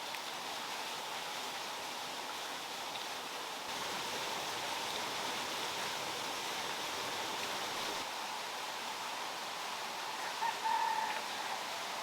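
Steady rush of running water, getting a little louder for a few seconds in the middle. A short chirp comes near the end.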